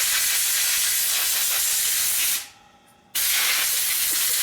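Loud, steady hiss of rushing air that dies away about two and a half seconds in, then starts again abruptly about half a second later.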